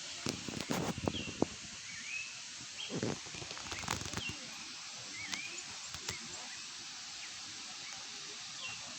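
Birds calling back and forth: short swooping calls that dip and then rise, repeated every second or so over a steady background hiss. Knocks and low rustles come in the first second and a half and again around three to four seconds in.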